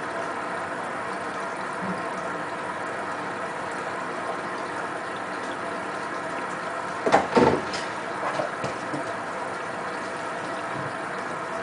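Hotpoint WT960 washing machine running, a steady motor hum with the drum turning and water sloshing inside; about seven seconds in there is a short louder splash or clunk, followed by a few smaller ones.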